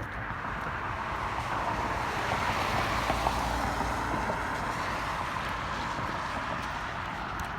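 A car passing on a snowy road: its tyre noise swells to a peak about three seconds in, then slowly fades.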